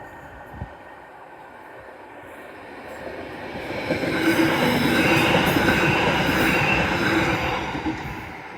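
Merseyrail electric passenger train passing over the level crossing, growing louder from about three seconds in, loudest for several seconds, then falling away near the end.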